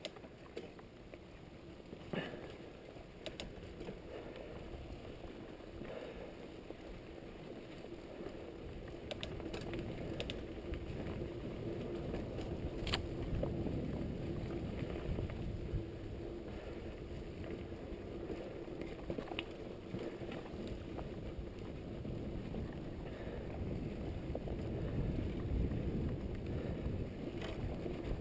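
Trek Fuel EX8 mountain bike riding along: a steady rumble of the tyres rolling, with scattered clicks and rattles from the bike, growing louder about a third of the way through.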